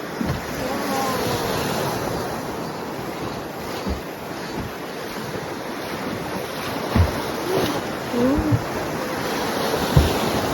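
Steady rush of river water with wind buffeting the microphone, and a few short low thumps in the second half.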